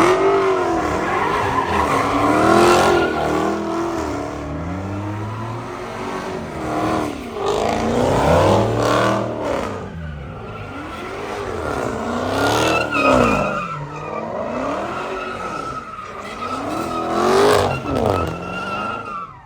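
A car drifting: the engine revs up and down over and over while the tires squeal steadily as they spin and slide.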